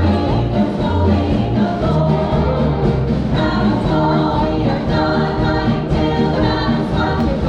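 A vocal group singing together over band accompaniment, several voices at once.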